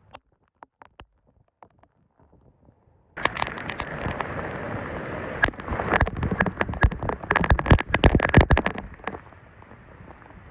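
Storm rain and wind: faint scattered ticks at first, then about three seconds in a sudden loud rush of wind-driven rain, full of sharp taps of drops striking close by, easing near the end.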